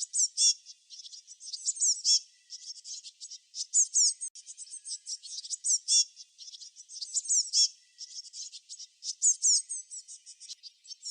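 Songbirds chirping: a dense, unbroken run of quick high chirps and twitters from several birds, many of them short downward-sweeping notes.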